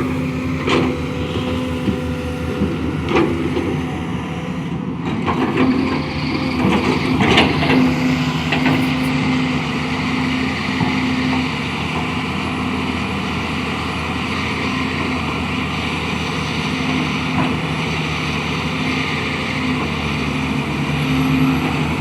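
Excavator's diesel engine running steadily while it works the soil, with several sharp knocks from the machine in the first eight seconds or so.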